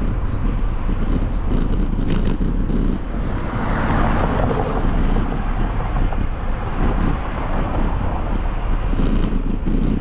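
Wind buffeting the microphone of a camera on a moving bicycle: a steady low rumble, with a broader rush of noise swelling about four seconds in.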